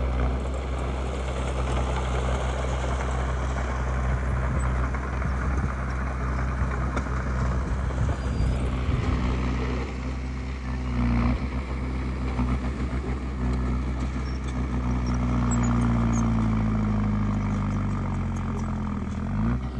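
Diesel engine of a Komatsu D20P bulldozer working steadily, with a noisy mechanical clatter over its low hum. The engine note shifts up and down in the second half as the load changes.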